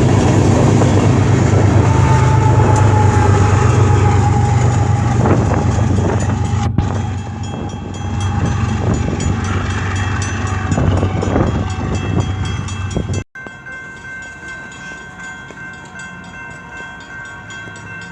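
Freight train rolling past close by, with a loud steady rumble and wheels clattering over the rail joints. About thirteen seconds in the sound cuts off abruptly to a much quieter stretch with faint steady ringing tones.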